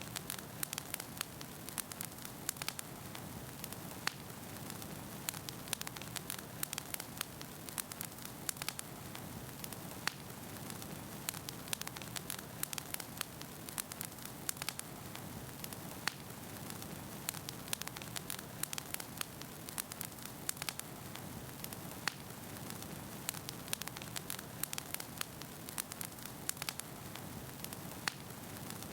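Wood fire burning in a fireplace: a steady low hiss of flames with frequent sharp, irregular crackles and pops of the burning logs.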